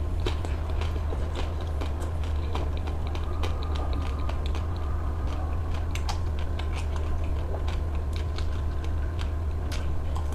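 A person eating ice cream: irregular crisp bites and wet mouth clicks, with a steady low hum underneath.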